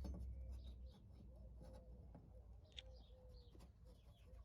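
Near silence, with faint bird calls in the background.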